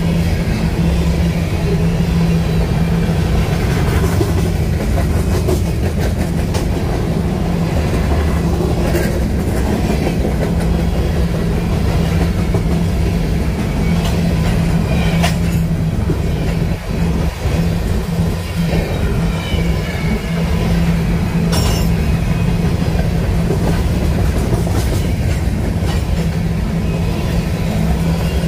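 Covered hopper cars of a BNSF grain train rolling past at speed: a steady, loud rumble of steel wheels on rail, with occasional sharp clacks from the wheels over the track.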